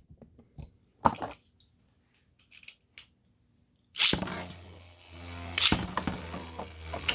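Small clicks as 3D-printed Beyblade tops are readied, then a launch about four seconds in: the tops spin with a steady low hum and clash in the stadium, with a sharp hit near six seconds.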